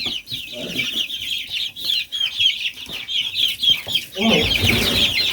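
A flock of six-week-old chickens peeping and cheeping continuously, many short high chirps overlapping. About four seconds in, a duller, broader noise joins underneath.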